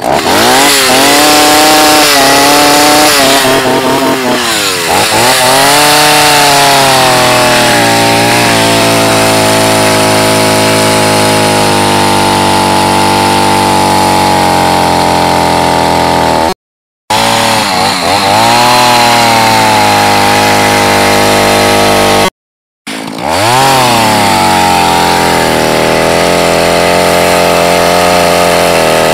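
Small gasoline engine running loud, revving up and down at first and then holding a steady high speed. It cuts out briefly twice and picks up again.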